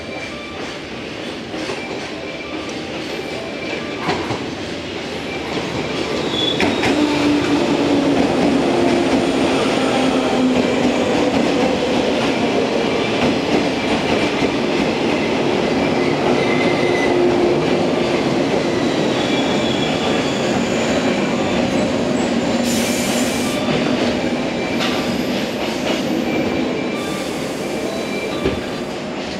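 JR West 115-series electric multiple unit rolling slowly along the platform, its wheels squealing and clattering on the rails. The sound grows louder a few seconds in as the cars come alongside, then holds steady, with two short hisses near the end.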